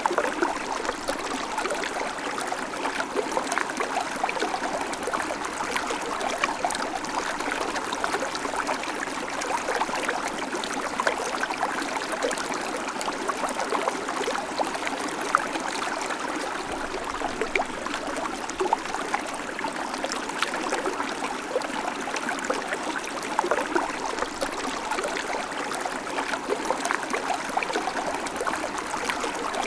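Small creek babbling steadily over stones, a continuous rush of water dotted with small gurgles and splashes.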